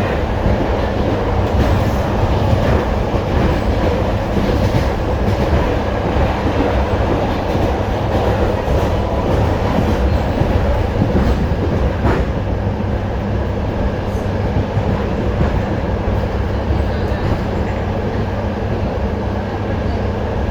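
ER9T electric multiple unit running along the line, wheels clattering over the rails under a steady low electrical hum. About twelve seconds in there is a sharp click, and the running sound eases slightly as traction power is cut for a neutral section of the overhead line.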